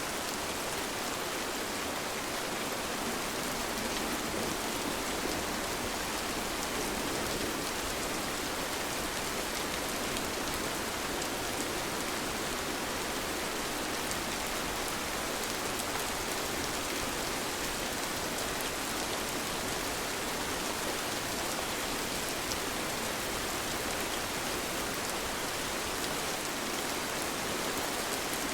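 Steady rain falling: an even, unchanging hiss with scattered faint drop ticks.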